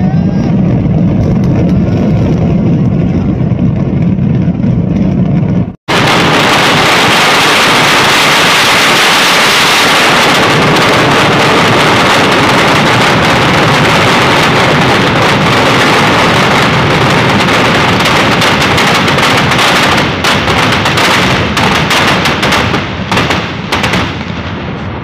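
A dense barrage of festival fireworks and firecrackers going off continuously, the bangs merging into one loud rumbling crackle. It breaks off for an instant about six seconds in, and as it thins near the end separate bangs stand out.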